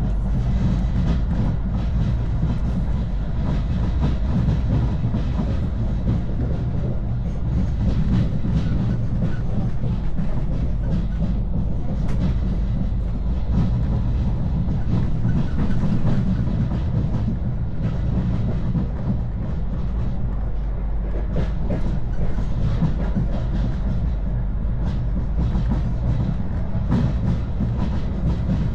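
A moving train: a steady low rumble of wheels on the track, with faint scattered clicks.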